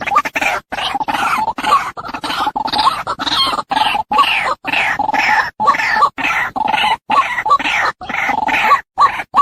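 Female white-breasted waterhen calling: a steady run of short, harsh calls, about two a second, separated by brief gaps.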